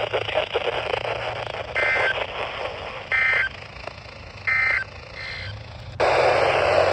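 NOAA Weather Radio SAME data tones: three short, evenly spaced bursts of warbling digital tones over radio hiss, the end-of-message signal that closes a weekly test broadcast.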